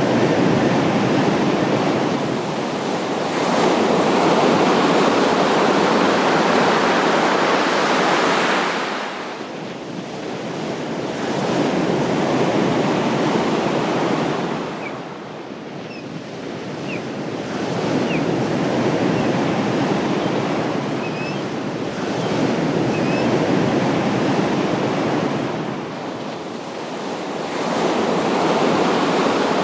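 Ocean waves breaking and washing up the shore, a steady roar of surf that swells and falls back in slow surges about every six to eight seconds.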